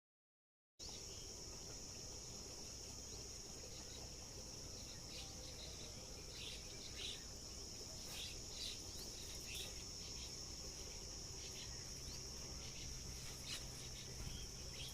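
Faint, steady, high-pitched insect chorus, with scattered short bird chirps over it. It cuts in about a second in.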